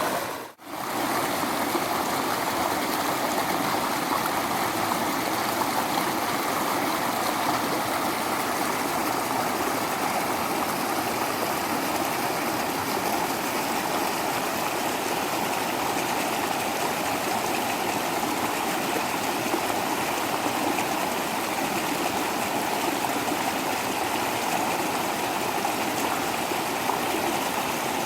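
Small waterfall with water rushing and splashing steadily. The sound cuts out briefly about half a second in.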